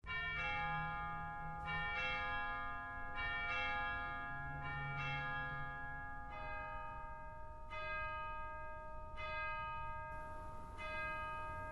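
Bells ringing a slow sequence of strokes, roughly one every second and a half, each note ringing on under the next.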